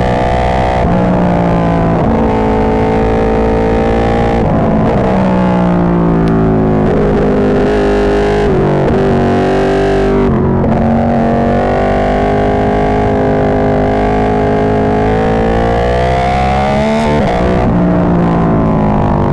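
Ducati 1299 Panigale's V-twin running through an Austin Racing GP2 full exhaust, loud and distorted from a mic too exposed to the exhaust. The engine pitch rises and falls repeatedly as the bike is ridden on and off the throttle, with breaks every few seconds.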